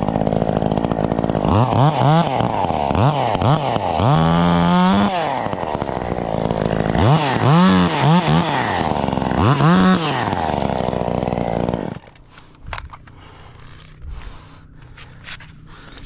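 Small top-handle chainsaw idling and being revved up and down in short throttle bursts, with a longer hold at high revs about four seconds in, as it cuts. It stops abruptly about twelve seconds in, leaving light knocks and rustling.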